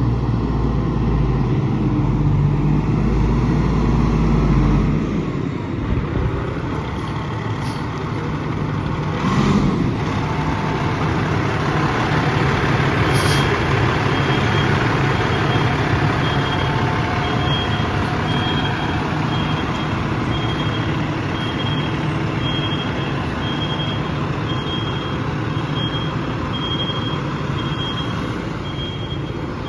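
Fire engine's diesel engine running as the truck manoeuvres, with a short hiss of air about a third of the way in. About halfway through its reversing alarm starts, a high beep about once a second, as the engine backs up.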